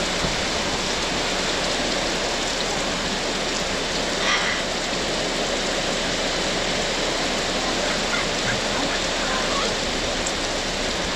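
Heavy tropical rain pouring down steadily and splashing on pavement.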